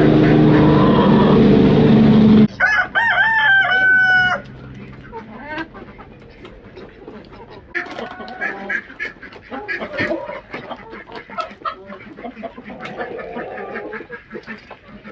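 A loud rushing noise for the first couple of seconds, then a rooster crows once, followed by hens clucking and calling softly for the rest of the time.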